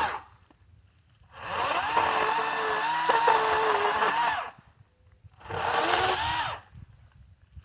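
Kobalt 40V Max cordless chainsaw's electric motor whining in two bursts, about three seconds and then about a second. Each burst spins up and winds down, and the pitch dips under load as it cuts through a cedar pole.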